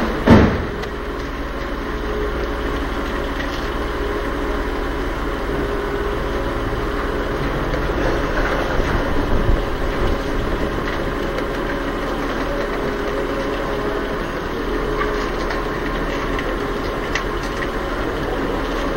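Volvo's engine idling, heard from inside the cabin, while the power steering is worked by turning the wheel back and forth. A brief loud sound that falls quickly in pitch comes just after the start.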